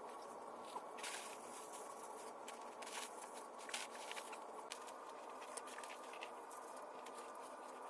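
Sped-up work sounds from clearing vines off a pear tree: irregular quick clicks and rustles, like snipping and pulling tangled vines, over a steady hiss.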